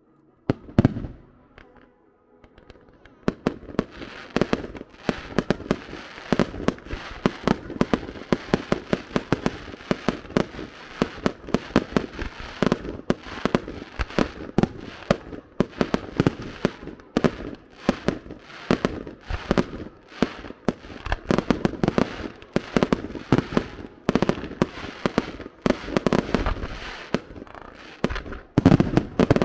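Fireworks going off: a single loud bang about a second in, then from about three seconds a dense, rapid run of bangs and crackles, with a louder bang near the end.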